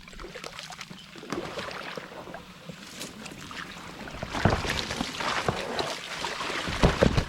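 Kayak being worked through dense lily pads: water splashing and pads and hull scraping and rustling, with louder knocks and splashes in the second half.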